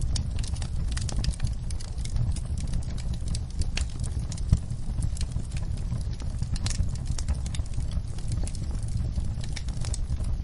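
Fire in a fireplace crackling: frequent irregular sharp pops and snaps over a steady low rumble.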